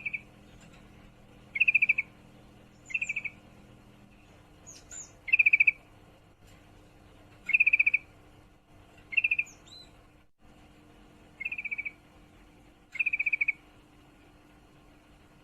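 Female yellow-vented bulbul (trucukan) giving her breeding-condition call to a male: about eight short, rapid trills, each about half a second long, repeated every second or two, with a faint high note before some of them.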